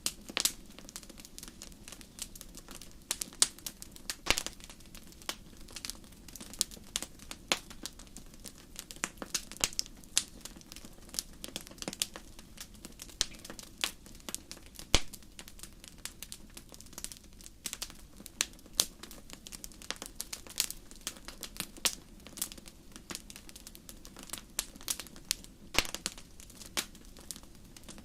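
Wood fire crackling in a fireplace: irregular sharp pops and snaps, several a second, over a low steady hiss, with one louder pop about halfway through.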